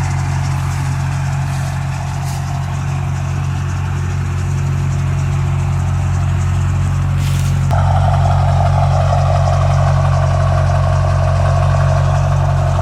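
2001 Chevy Duramax 6.6-litre V8 turbo-diesel idling steadily while warming up after a block-heater-assisted start on a cold morning. A steady mid-pitched hum joins in and the sound gets a little louder about eight seconds in.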